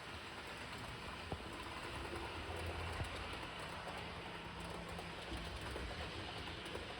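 Model train, an E656 locomotive model hauling coaches, running along its track: a steady rolling rumble with a couple of short clicks.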